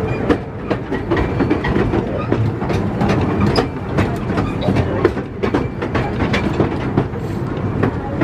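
Miniature railway train running along the track, its wheels clicking and rattling over the rail joints above a steady rumble.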